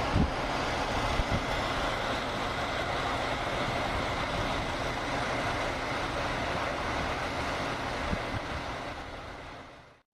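Steady noise of idling vehicle engines, with a faint steady whine in it, fading out near the end and cutting off suddenly.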